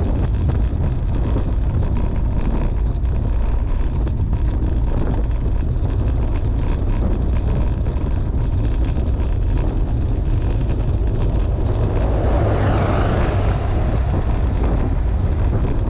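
Wind rumbling steadily on the microphone of a camera riding along on a bicycle, with a louder rushing swell about twelve seconds in.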